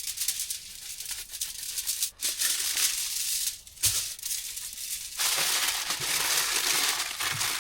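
Seasoning shaken out of a shaker onto a raw steak, a dry rattling hiss in about four stretches with short pauses between them.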